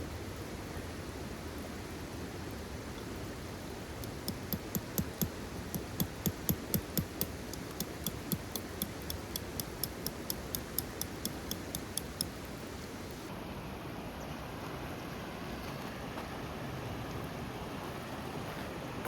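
Steady hiss of rain at a riverside campsite. From about four seconds in, a run of sharp, evenly spaced ticks comes about three times a second for some eight seconds and fades out.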